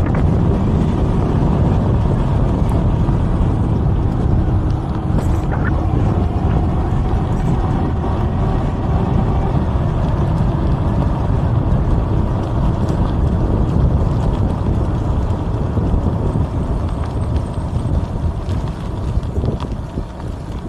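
Wind buffeting the microphone of a camera on a moving e-bike, a loud steady low rumble with faint steady tones beneath it, easing off slightly near the end.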